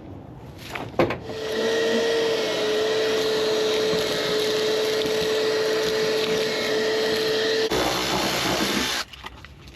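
Shop vacuum switched on about a second in, running steadily with a whine, then switched off about nine seconds in; its sound changes just before it stops.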